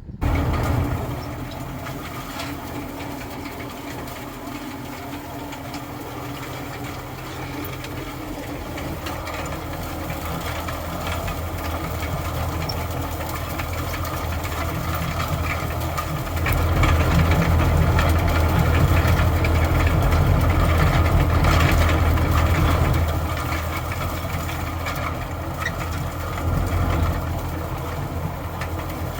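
A tractor's diesel engine running steadily. It grows louder from about halfway, holds loudest for several seconds, then eases back near the end.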